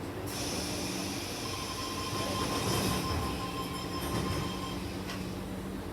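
Sydney Trains Tangara electric train heard from inside, moving off after its doors close. A loud hiss cuts in suddenly and stops about five seconds in, over a steady whine.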